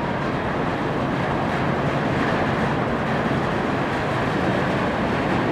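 The ferry Ogasawara Maru pulling away from the pier: a steady rumbling of its engines and churning water that grows a little louder over a few seconds.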